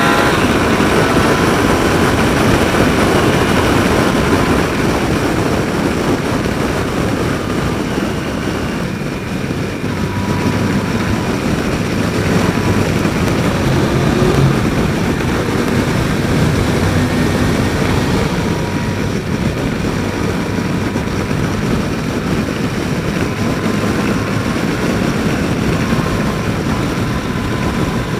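A motorcycle running steadily at cruising speed, heard through a helmet microphone. Engine hum sits under the rushing wind noise.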